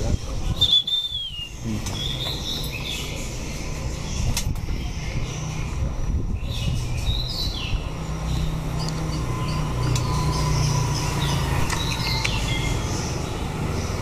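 White-rumped shamas giving short, scattered chirping calls over a steady low rumble.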